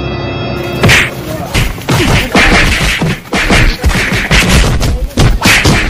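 Tense, dark music for the first half second, then a fast, loud flurry of punch and kick thwacks on a person, starting about a second in.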